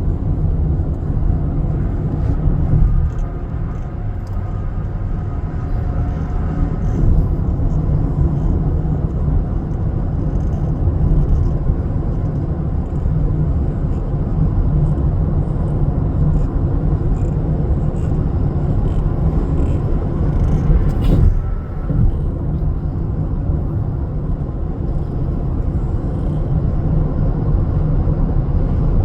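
A truck on the move: a steady, loud low rumble of engine and road noise, with a brief lull about three-quarters of the way through.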